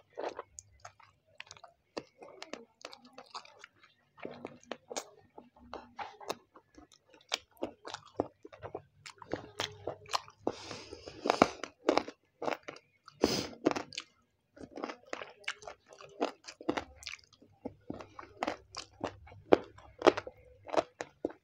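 Chewing a mouthful of chicken biryani, miked close at the chest: an irregular run of short mouth clicks, several a second, all the way through.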